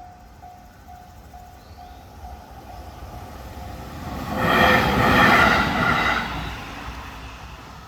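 Japanese level-crossing alarm ringing with a single repeated tone about twice a second, fading out over the first two seconds or so. Then a train passes over the crossing, rising to its loudest between about four and six and a half seconds in and dying away.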